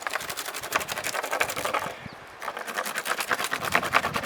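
A knife scraping bark off a wooden stick in quick short strokes, about ten a second, with a brief pause a little past halfway.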